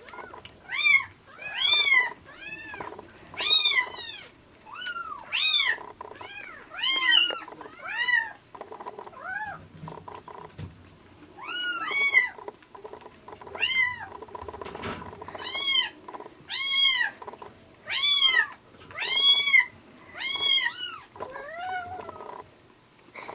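Rescued kittens mewing over and over, about one high-pitched mew a second, each rising then falling in pitch.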